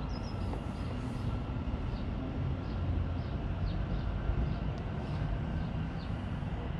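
Steady low rumble and hum of a train standing at the station, not departing, with a few short high chirps now and then.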